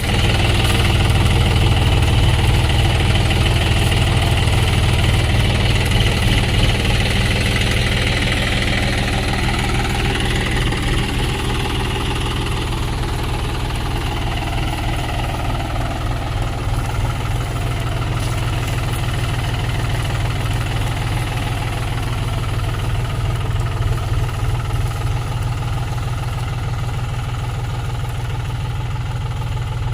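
John Deere tractor's diesel engine running steadily at low revs, a continuous low drone, a little louder in the first ten seconds or so.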